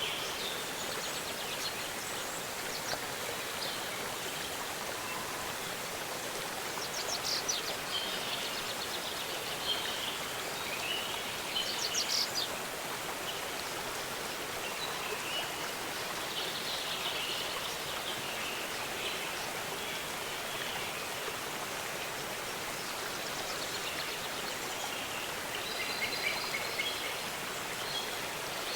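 Waterfall rushing steadily, with birds chirping and giving short quick trills now and then over the top, loudest about a third of the way in and again near the end.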